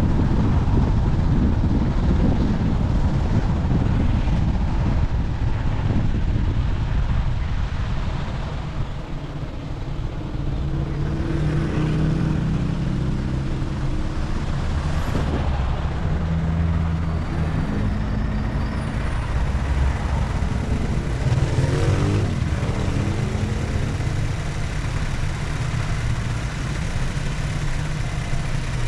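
A motor vehicle driving on a road, with a steady low rumble of engine and road noise. In the middle stretch the engine note rises and falls several times.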